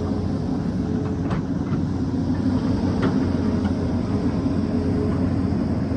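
Excavator diesel engine running steadily under working load, with a faint hydraulic whine that comes and goes. Two short sharp knocks, about one and three seconds in.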